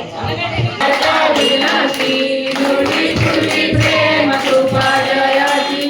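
A group of devotees singing a Marathi aarti together, with a drum beating and jingling hand percussion; the music swells about a second in.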